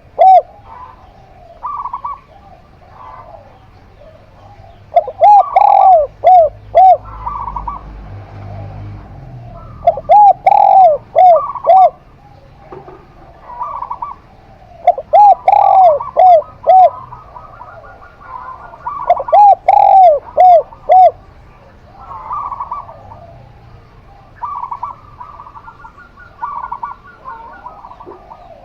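Caged zebra dove and spotted dove cooing. A loud run of four or five arched coos comes back about every five seconds, with fainter, higher short coos in the gaps between.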